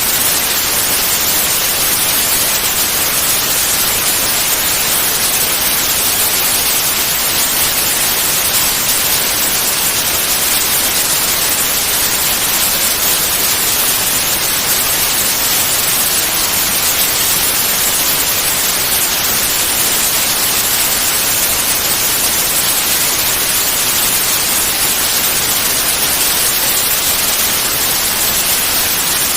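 Steady white noise: an even, unchanging hiss, brightest in the high end, with no breaks or changes.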